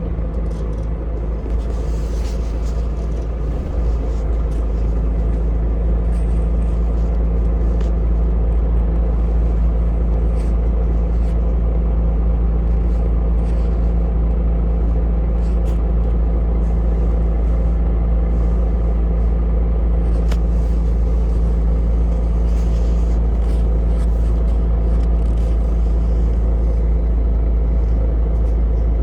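Vehicle under way, heard from on board: a steady low rumble that builds over the first few seconds and then holds level.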